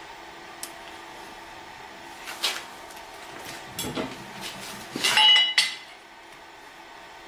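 Metal pieces clinking and scraping against each other, with a few light knocks and one louder ringing clatter a little after five seconds, over a steady machine hum.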